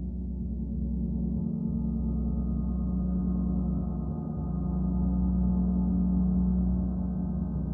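A gong sounding in a continuous, sustained wash of overlapping low tones, with no separate strikes; it swells a little louder about five seconds in and then eases back.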